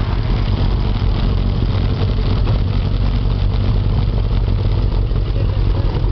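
Motorcycle engine running steadily while riding, with a loud, even low rumble throughout.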